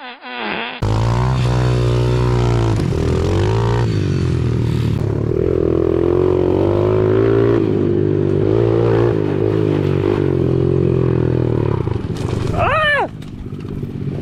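Small single-cylinder four-stroke pit bike engine running under way, its revs rising and falling as the throttle is worked.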